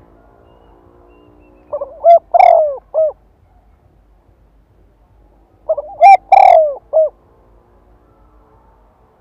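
Spotted dove cooing: two phrases about four seconds apart. Each is a few short notes around one longer, louder coo. It is a decoy bird's call, used to provoke wild doves into calling back.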